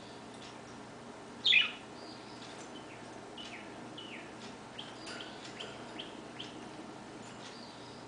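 Songbirds chirping: a scatter of short calls that drop in pitch, with one louder downward-sweeping call about one and a half seconds in.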